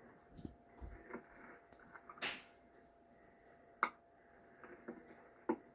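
A few faint, separate clicks and knocks, with a short rustling swish about two seconds in.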